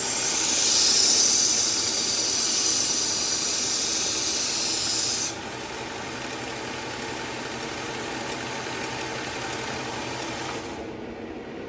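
Knife edge ground against the coarse 120-grit belt of a running belt sharpener, a loud high hiss for about five seconds. The belt then runs on with no blade on it and stops near the end.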